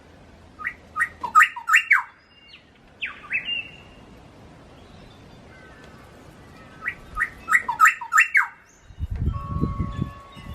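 A songbird singing two phrases of quick, falling notes a few seconds apart, with a single note between them. A low rumble comes in near the end.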